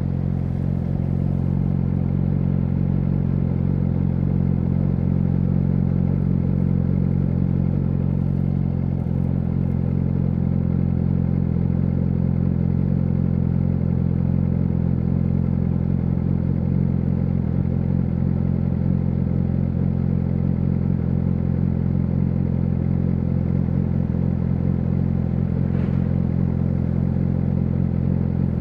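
Yamaha YZF-R6 inline-four running through an SC-Project SC1-R exhaust, holding a steady, unchanging engine speed with no revving.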